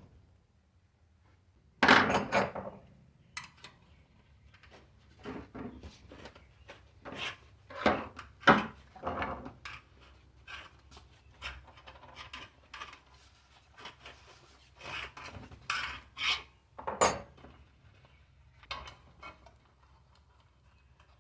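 Hands working on a bicycle wheel and tire: irregular knocks, clinks and rubbing, the loudest a knock about two seconds in.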